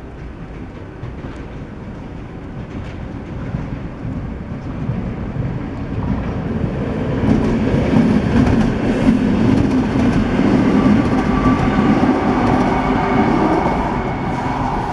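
A train running over the level crossing. The low rumble builds over the first half and stays loud, with wheels clacking over the rail joints.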